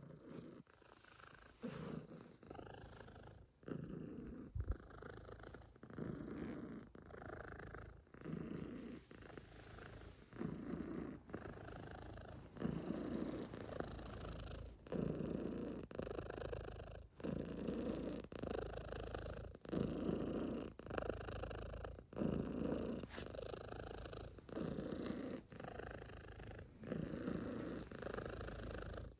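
Calico cat purring close by, the purr swelling and fading in a steady rhythm with its breathing, about once every second or two.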